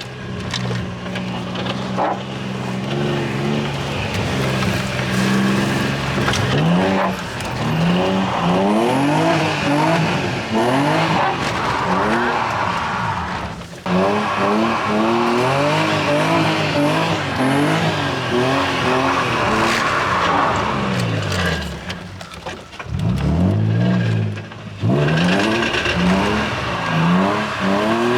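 A car engine revving up and falling back over and over as the car is drifted on a wet surface, with tyre noise underneath. The revs drop away sharply twice, about 14 and 23 seconds in, then climb again.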